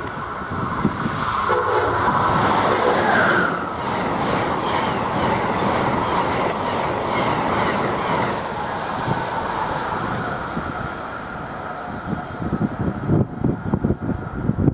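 Electric passenger train passing at speed: a last short horn note near the start, then loud steady rail and wheel noise with rhythmic clickety-clack of wheels over rail joints, fading after about eight seconds. Uneven low thumps near the end.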